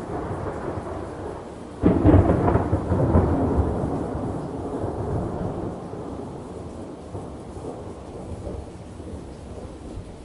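Thunderstorm: a steady low rumble with rain, then a sudden loud thunderclap about two seconds in that rolls away over several seconds.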